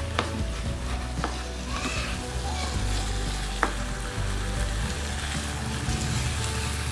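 Ground spinach and masala sizzling in hot oil in a nonstick wok over high heat. A spatula stirs the mix, with a few sharp taps and scrapes against the pan.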